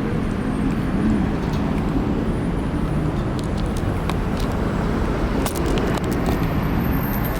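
Street traffic: motor vehicles running steadily, with a constant low rumble and a few faint clicks about five and a half seconds in.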